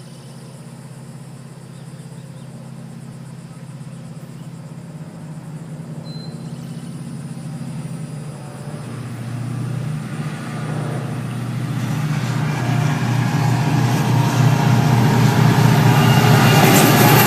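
An EMD GP40-2 diesel-electric locomotive with a 16-cylinder EMD 645 engine approaches, its engine drone growing steadily louder. Wheel and rail noise builds over the last few seconds as it draws close.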